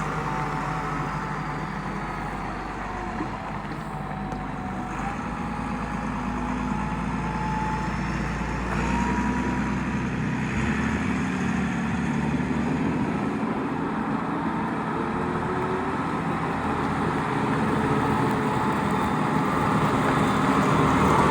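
Svetruck 1260-30 heavy forklift's engine running steadily, with a thin whine that shifts slightly in pitch and engine speed changing a little a few times.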